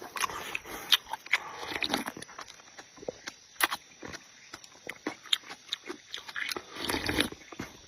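Close-miked chewing and eating: wet mouth clicks and lip smacks throughout, with two longer slurps near the start and about seven seconds in.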